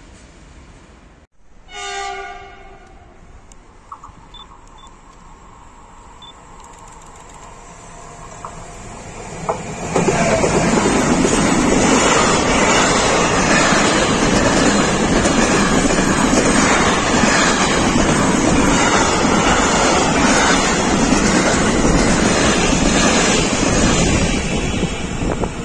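A train horn sounds once, briefly, about two seconds in. Rail noise then builds slowly as a container freight train approaches, and from about ten seconds in the train passes close by at speed: a loud, steady rumble and clatter of wagon wheels over the rails.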